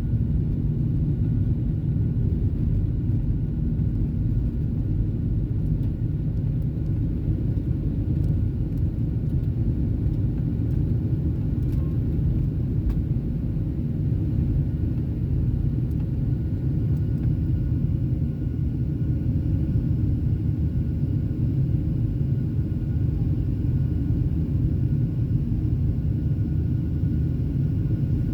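Boeing 737 cabin noise heard from a passenger seat: a steady low rumble of engines and airflow, with a faint steady hum over it.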